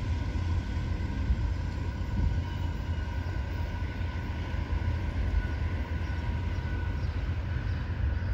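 Diesel-hauled freight train rolling past, a steady low rumble with faint steady high tones over it.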